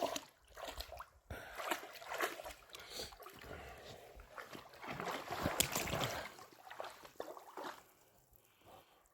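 Irregular splashing and sloshing of shallow water, with scattered sharp splashes. It is busiest about five to six seconds in and dies away near the end.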